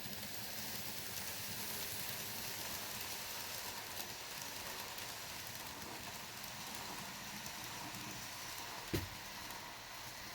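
N-gauge model train running on the layout's track, a steady hiss of the small motor and wheels on the rails that swells slightly and then eases off toward the end. A light click comes about four seconds in and a short knock near the end.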